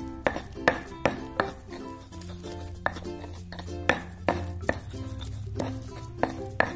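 Stone pestle knocking and grinding against a stone mortar (ulekan and cobek), working a turmeric spice paste that is already fairly smooth; the strikes come about two or three a second, with a short pause about a second and a half in. Background music with steady tones plays underneath.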